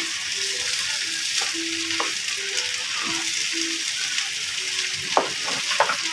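Fried rice with chicken and egg sizzling in a pan as it is stirred and turned over, with a few sharp knocks about five seconds in.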